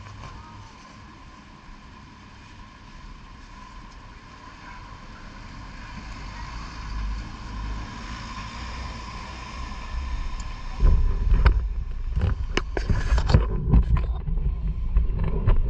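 Wind on the microphone, starting as a fairly quiet steady hiss with a faint high tone, then about two-thirds of the way in turning into loud, irregular low buffeting with sharp gusts.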